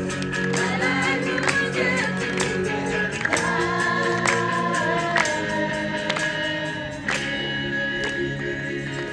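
Gospel worship song: voices singing together over instruments, with a steady percussive beat.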